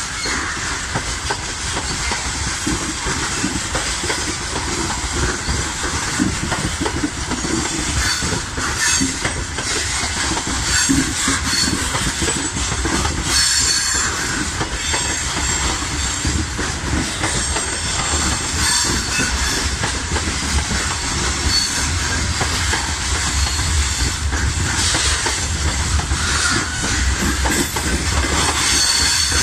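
Long freight train of hopper and gondola wagons rolling past close by: a steady rumble and clatter of wheels on rail, with high wheel squeals breaking in now and then.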